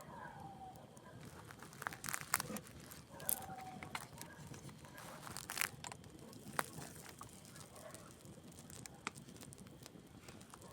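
Wood campfire burning, crackling with irregular sharp pops and snaps over a faint steady hiss. A few short, faint falling tones sound around the start, the middle and near the end.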